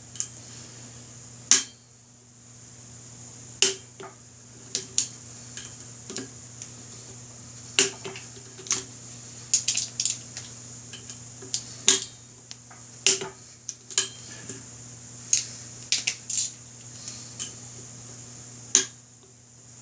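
Torque wrench and hand tools on the motorcycle's brake-rotor bolts: irregular sharp metallic clicks and clinks, about one or two a second, over a steady low hum.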